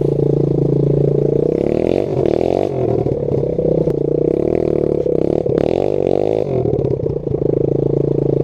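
Dirt bike engine running steadily, revving up and back down twice: once about two seconds in and again around five to six seconds in.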